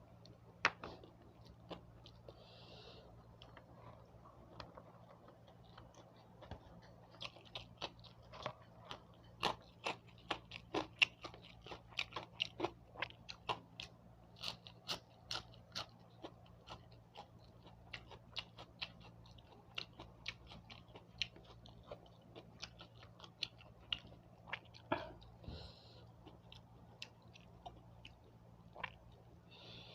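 Close-miked person chewing food with many short crunches and mouth clicks, thickest through the middle of the stretch.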